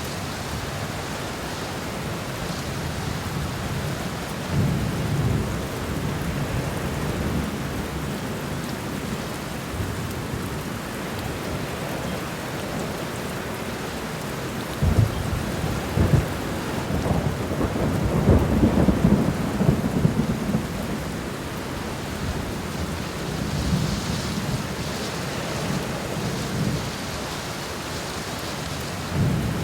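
Steady rain falling in a garden, with deep rumbles swelling up several times. The loudest rumble starts suddenly about halfway through and lasts several seconds.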